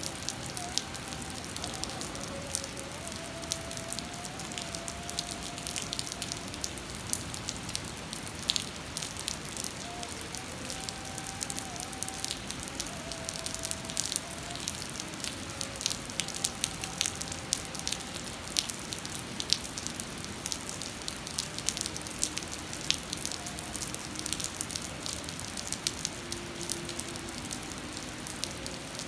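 Heavy rain falling on flooded pavement: a steady hiss with many close drops striking sharply.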